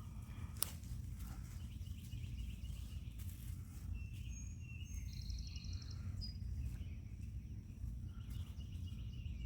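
Birds chirping over a steady low outdoor rumble, with a short rapid trill about halfway through. A single sharp click comes just after the start.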